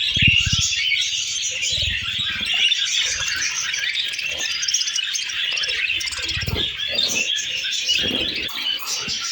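Fischer's lovebirds chattering continuously in rapid, high-pitched chirps and squeaks. A few short low thumps come through, near the start and again about two, six and eight seconds in.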